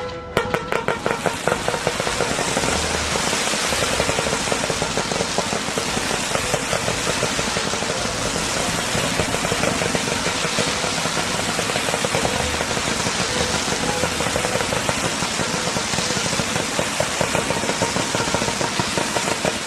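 Fireworks barrage of rapid-fire shots and crackling, starting suddenly at about ten pops a second and quickly running together into a dense continuous crackle.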